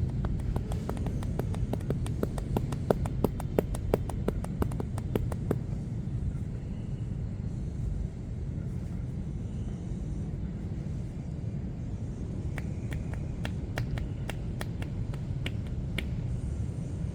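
Rapid, sharp hand strikes of a massage: quick runs of crisp slaps or claps, about six a second, then a second, sparser run near the end. Beneath them is a steady low traffic rumble.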